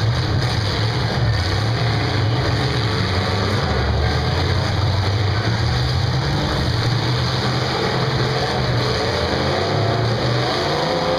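Demolition derby cars' engines running hard and revving, a steady loud drone.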